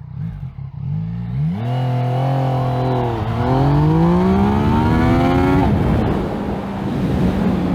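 Yamaha MT-09 three-cylinder engine under hard acceleration in a 0 to 100 km/h run: the revs climb, dip sharply at an upshift about three seconds in, and climb again. Near six seconds the engine note drops to a lower steady tone under loud wind noise.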